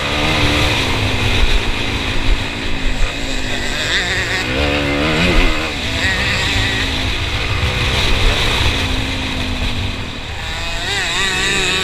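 Motocross bike engine heard from on board, its pitch repeatedly rising and falling as the rider opens and closes the throttle, with wind buffeting the microphone.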